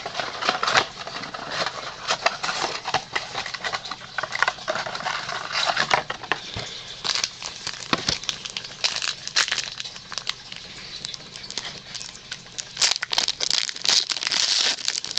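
Trading-card packaging being opened and handled: the cardboard retail box and a foil card pack crinkling and crackling with scattered sharp clicks, getting busier near the end.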